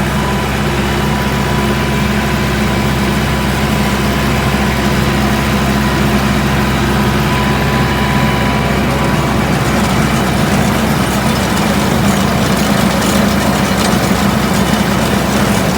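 Kubota M9000 tractor's diesel engine running at steady revs, with a mechanical rattle growing busier from about ten seconds in.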